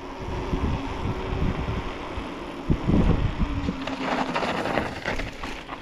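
Wind buffeting the microphone outdoors, a fluctuating low rumble with a couple of stronger gusts around the middle.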